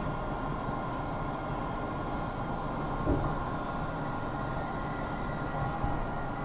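MBTA Red Line subway car heard from inside: a steady rumble with a faint steady whine, and a short knock about three seconds in.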